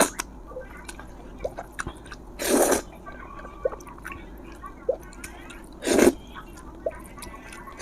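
A person eating close to the microphone: two loud slurps about three and a half seconds apart, with small wet mouth clicks and chewing sounds between them.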